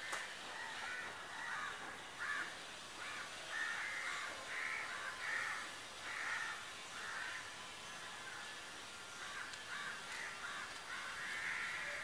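Harsh, caw-like bird calls repeated many times in short, irregular bouts, with a sharp click right at the start.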